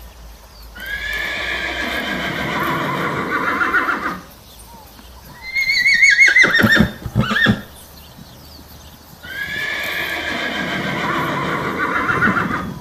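Horse neighing, three calls: two long calls of about three and a half seconds each, and between them a shorter, louder whinny whose pitch quavers and falls, breaking into rough pulses at its end.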